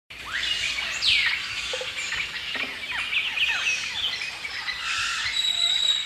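Several birds chirping and calling, with many quick downward-sweeping notes, several a second. A single high, steady whistled note is held near the end.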